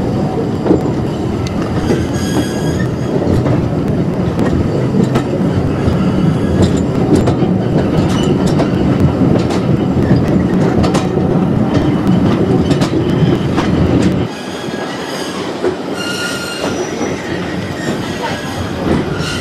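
Heritage railway carriages running on jointed track behind a steam tank engine, heard from a carriage window: a steady wheel rumble with rail-joint clicks and short high flange squeals on the curves. The rumble drops away abruptly about fourteen seconds in, leaving a quieter run with more squeals.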